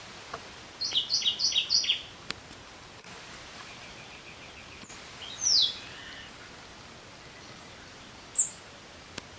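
Wild songbirds calling over a steady outdoor hiss. About a second in, one bird gives a quick run of four two-note phrases, each a higher note then a lower one. Midway comes a single falling whistle, and near the end a brief very high chirp.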